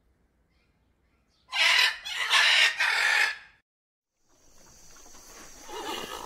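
A bird's loud, harsh call, in three quick parts lasting about two seconds. After a brief silence, faint background noise with a steady high whine rises.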